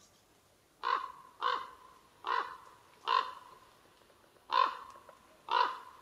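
A bird cawing: six short, harsh calls about a second apart, with a longer pause before the last two.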